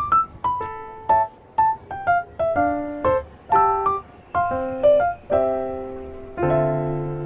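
Background music: a gentle piano melody of single notes, with sustained chords entering near the end.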